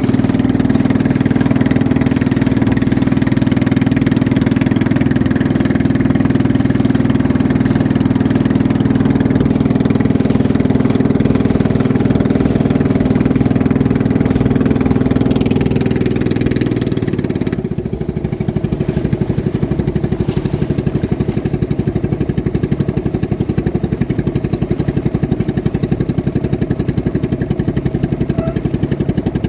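Racing boat engines running loud and steady; a little over halfway through the smooth engine note drops away into a rougher, rapidly pulsing engine sound.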